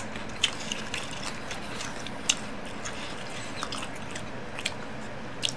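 A person chewing fried battered food, with irregular short, sharp crunches over a steady faint hiss.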